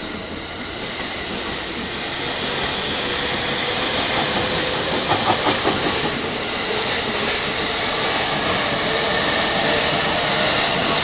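JR E231/E233-series electric commuter train moving off along the track, its wheels clicking over the rail joints with a quick run of clicks about five seconds in, growing louder as the cars speed up past.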